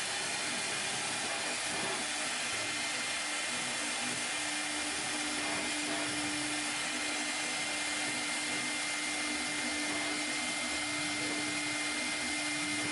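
CNC router spindle running steadily with a whisk in its collet as it works through cake: a constant machine noise with a steady whine and a lower hum held level throughout.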